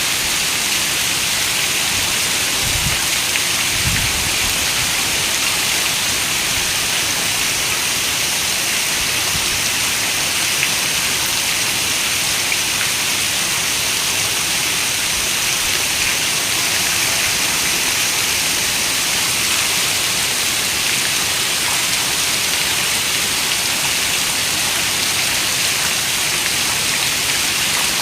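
Steady rain: an even hiss of falling drops. Two brief low thumps sound about three and four seconds in.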